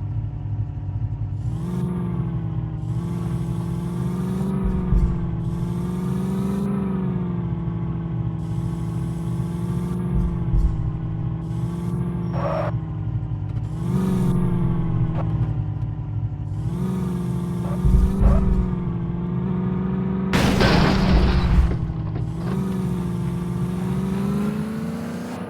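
A vehicle engine running steadily, its pitch rising and falling slightly, with a few short knocks and a louder rush of noise about twenty seconds in.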